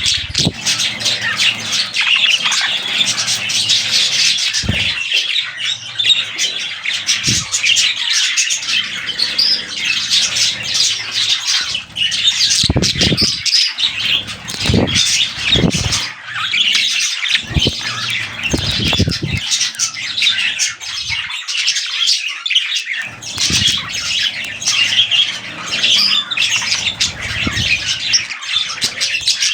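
Budgerigars chattering and squawking without a break, a dense stream of fast, warbling high chirps. A few short low thumps come in the middle stretch.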